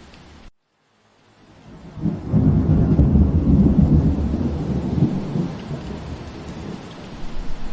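Steady rain hiss that cuts out to silence about half a second in and fades back up, then a long low roll of thunder that builds about two seconds in and dies away over several seconds while the rain keeps falling.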